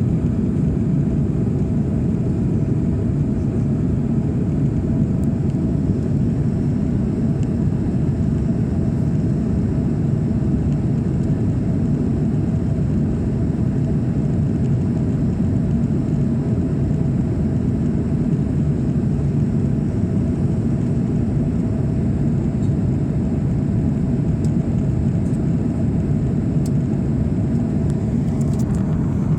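Steady drone of engine and airflow noise inside the cabin of an Airbus A340-600 airliner in flight, deep and unchanging, with a faint steady hum above it.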